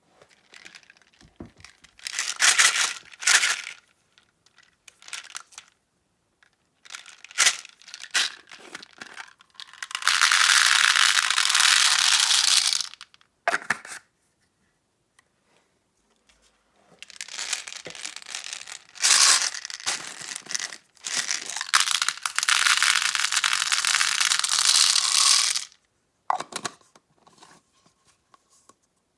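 Packaging being handled close to the microphone: short crinkling and crackling bursts, and two long, steady tearing stretches of about three seconds each, one in the middle and one near the end.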